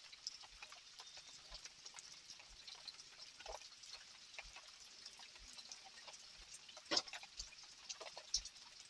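Rain dripping and tapping in scattered drops over a faint hiss, with a louder drip about seven seconds in and another near the end.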